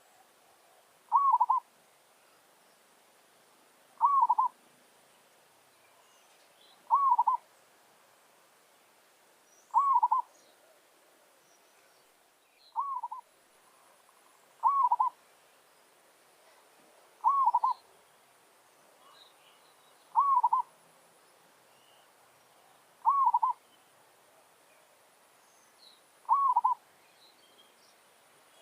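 Zebra dove (merbok) cooing: a short, stuttering coo repeated about every three seconds, ten times over, with faint chirps of other small birds in between.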